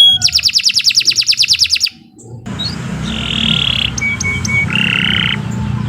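Domestic canary singing. It opens with a fast trill of about ten repeated sweeping notes a second that breaks off just under two seconds in. After a short pause come buzzy rolled notes and a few short clear whistles, over a low background hum.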